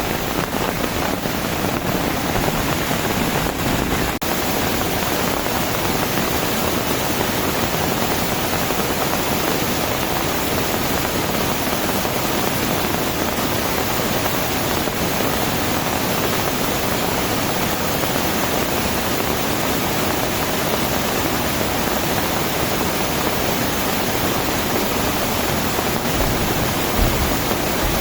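Heavy tropical rain falling without a break, a steady dense hiss.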